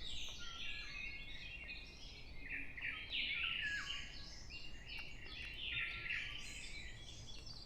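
Several songbirds singing at once: many overlapping short chirps and quick whistled phrases, some falling in pitch.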